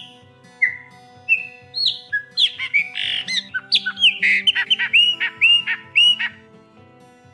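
Chopi blackbird (graúna) singing loud, clear whistled notes. A few single notes come first, then a quick run of varied notes, ending in several repeated down-slurred whistles about six seconds in.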